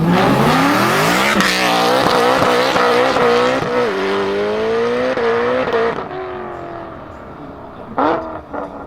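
Supercharged BMW M3 E92 V8 with an Akrapovic exhaust accelerating hard. The engine pitch climbs and drops several times as it goes up through the gears, then fades about six seconds in. A short rev rises near the end.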